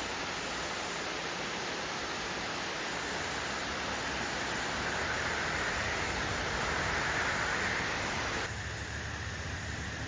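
Steady rush of falling water from a waterfall. About eight and a half seconds in it cuts abruptly to a duller, lower rumble.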